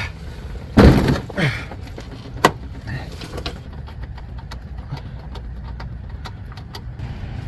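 Hand tools and metal parts knocking while working under a pickup truck: a loud thud about a second in, a sharp clank a little later, then scattered light clicks over a low steady hum.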